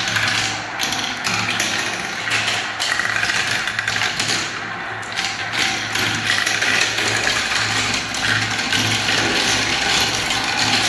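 Many marbles rolling and clattering down a spiral marble-run track, a continuous rattle of small taps and clicks over a low rolling rumble.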